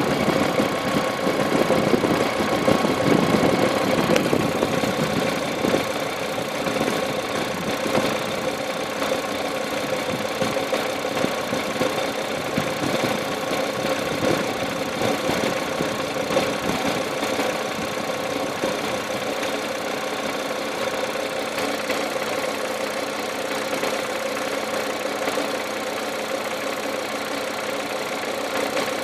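Audi RS3's turbocharged five-cylinder engine idling with the gearbox in park or neutral, a little louder for the first six seconds or so, then settling to a steady idle.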